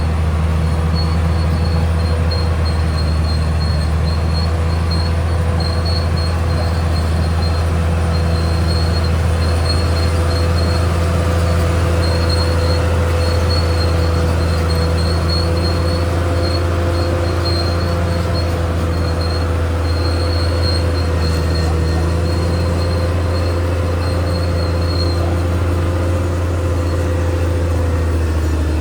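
Caterpillar D6R XL bulldozer running steadily with a deep engine drone. A high, thin squeal comes and goes over it.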